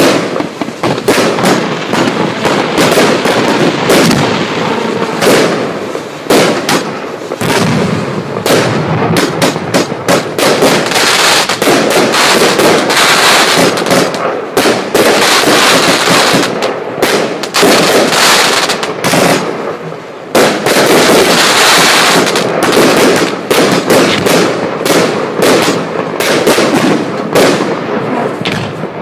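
Firework cakes and barrages firing continuously: a dense, rapid run of launch reports and bursts with no pause.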